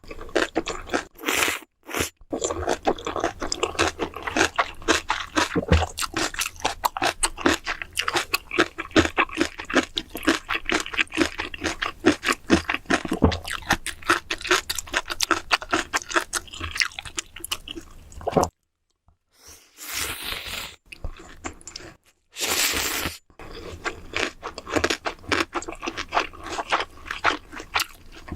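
Close-miked chewing with crisp crunching of food in the mouth, a dense run of crackly bites and chews. It stops for about a second around two-thirds of the way in, then resumes.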